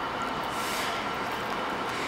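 Steady rumble and hiss of a freight train approaching in the distance, with a brief swell of hiss about half a second in.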